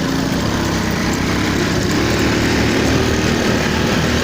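Motorcycle engine running under way, its note climbing a little in the first couple of seconds, with wind rushing over the microphone.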